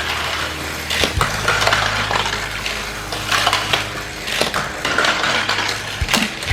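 Plastic toy race cars clattering and knocking around a plastic figure-8 track, with many quick irregular clicks and small impacts.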